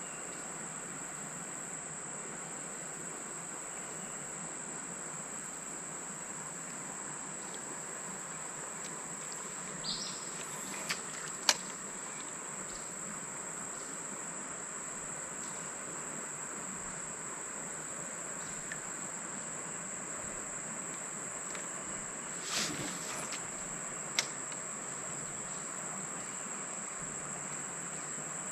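Steady high-pitched drone of insects, unbroken throughout. A few sharp clicks and knocks cut in twice, around ten to twelve seconds in and again near twenty-three seconds.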